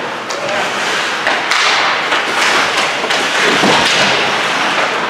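Ice hockey game play: irregular thuds and taps of puck, sticks and players against the boards, over a steady noisy background.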